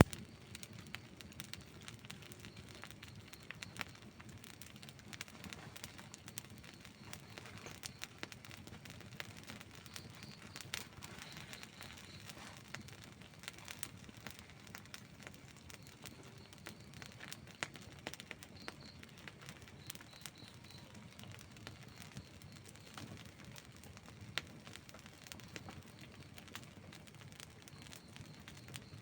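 Wood campfire burning: irregular crackles and sharp pops over a soft, steady hiss.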